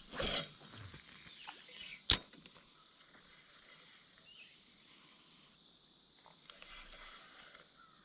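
Fishing cast with a spinning rod: a brief swish near the start, then one sharp click about two seconds in, followed by a faint steady high-pitched hiss.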